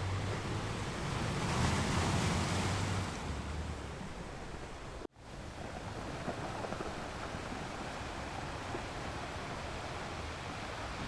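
Ocean surf washing on a shore: a wave swells and breaks about one to three seconds in, then a steady wash of surf. The sound cuts out for an instant about five seconds in and resumes.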